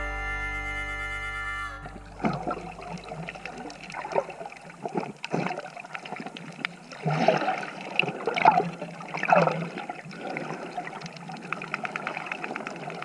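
Background music that stops about two seconds in, followed by irregular splashing and sloshing of water with many small clicks and a few louder splashes.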